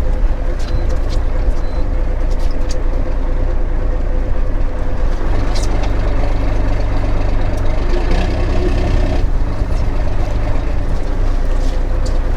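Fishing boat's engine running steadily: a continuous low drone with a steady hum, with a few light clicks and knocks on deck.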